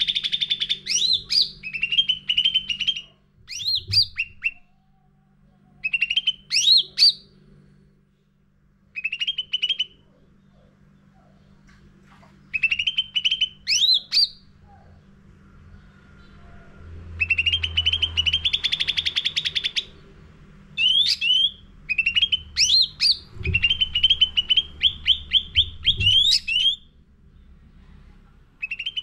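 Cucak ranting songbird singing in repeated bouts of rapid chattering trills ending in steep upward-sweeping whistled notes, with pauses of a second or two between phrases. A steady low hum runs underneath, and there are a few soft thumps.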